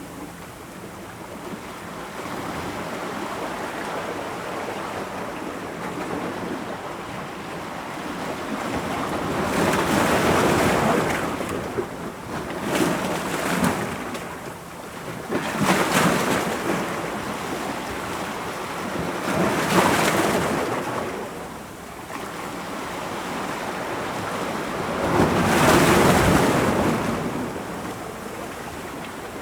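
Ocean waves breaking against rocks: a continuous wash of surf with several louder crashes spaced a few seconds apart, the biggest about ten, sixteen, twenty and twenty-six seconds in.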